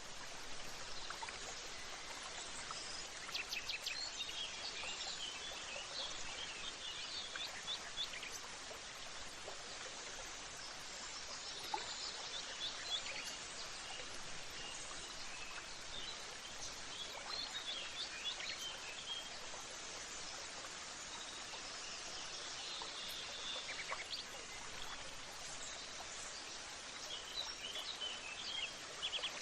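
Nature ambience: birds chirping in short clusters of quick high calls every few seconds over a steady, even hiss.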